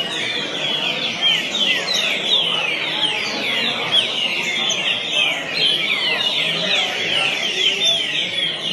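Green-winged saltator (trinca-ferro) singing its 'boi fino' song nonstop: a fast, unbroken run of whistled notes.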